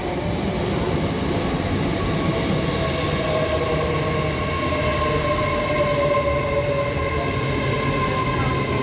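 Train at the platform, its noise building just before and then holding steady: a dense rumble with several steady humming tones over it, one of which slides slowly down in pitch.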